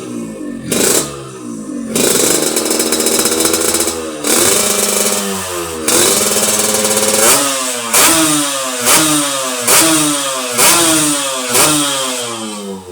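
Yamaha RX-King's two-stroke single-cylinder engine being revved: held at high revs for a couple of seconds, then blipped about six times in quick succession, each rev rising and dropping back.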